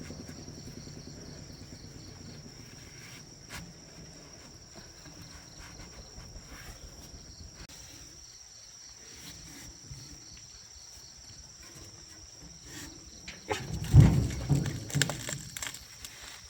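A steady high insect drone over a quiet rural background, with a low engine-like rumble fading out at the start. About fourteen seconds in comes a burst of loud knocks and thumps lasting a second or two.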